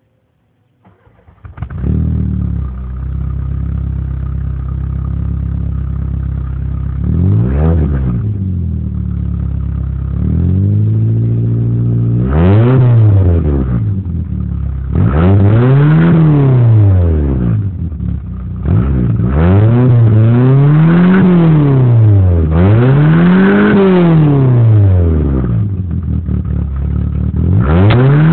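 Volkswagen Mk2 Jetta's engine and exhaust: the engine starts about a second and a half in and idles steadily, then is revved again and again, each rev rising and falling in pitch. The revs come closer together and climb higher toward the end.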